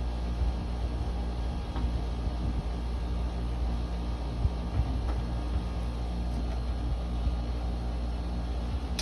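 Window air conditioner running steadily: a low electrical hum from the compressor and motor under the rush of the fan, which cuts off abruptly at the end.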